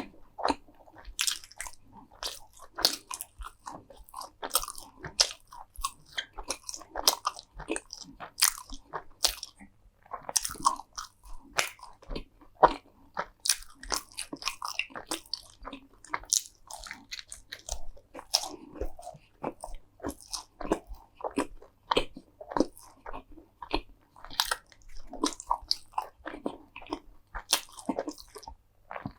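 Close-miked eating: repeated crunchy bites and chewing of crisp food, a sharp crunch about every half second to a second.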